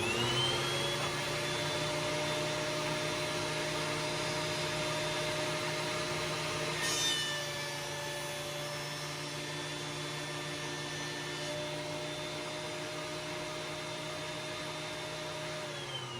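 Laguna PX12 benchtop planer motor spinning up with a rising whine and running steadily alongside a vacuum used for dust collection, with a brief louder moment about seven seconds in. Near the end the planer is switched off and winds down while the vacuum keeps running.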